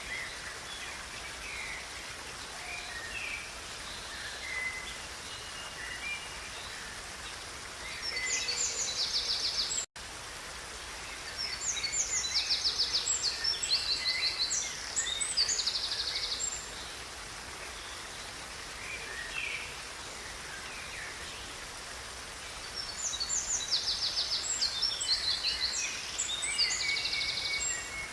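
Songbirds singing over a steady rush of river water, with three long phrases of rapid high trills and chirps that are the loudest sounds, and softer chirps between them. The sound drops out for a split second about ten seconds in.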